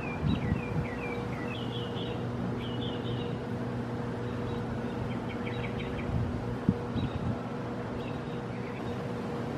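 Small birds chirping in quick series, busiest in the first few seconds and again about halfway through, over a steady low mechanical hum. A few low thumps come near the start and later, with one sharp click about two-thirds of the way through.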